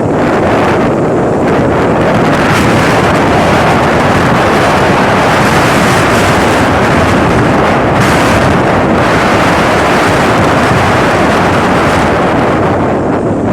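Strong wind buffeting the microphone, a loud steady rushing with slight gusts.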